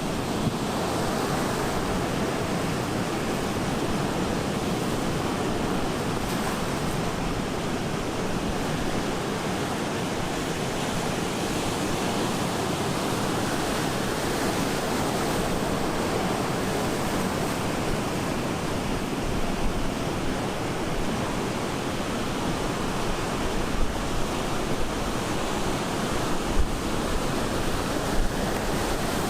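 Ocean surf breaking and washing ashore in a steady, continuous roar of white water. In the second half a few short low thumps of wind buffet the microphone.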